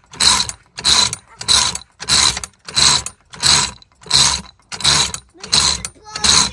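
Hand-worked playground mechanism, such as a crank or pulley, being operated in a steady rhythm: about eleven loud scraping, ratcheting strokes, roughly one and a half a second, that stop abruptly at the end.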